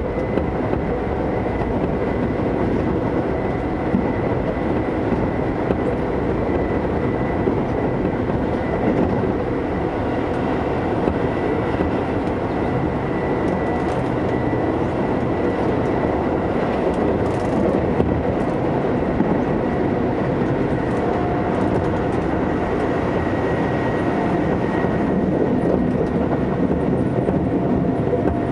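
Keisei 3400 series electric train running at speed, heard from inside the carriage: steady rumble of wheels on rail with a faint high whine over it.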